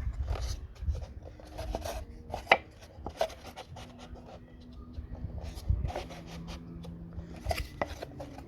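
Scrap wood offcuts being handled and knocked against each other and the bench: irregular light knocks and clicks, with one sharper knock about two and a half seconds in.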